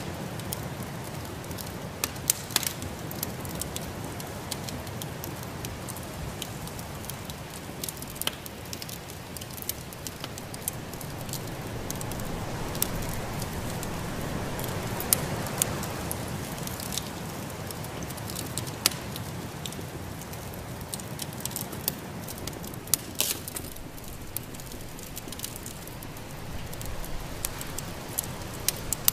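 Wood fire in a fireplace crackling, with sharp irregular pops over a steady rushing hiss that swells a little midway.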